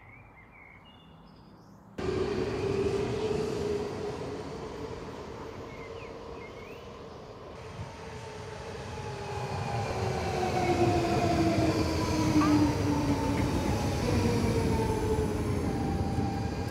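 Copenhagen S-train (S-tog) electric train pulling into the station: a rumble that starts abruptly about two seconds in and grows louder as the train comes alongside. Its motor whines slowly fall in pitch as it slows.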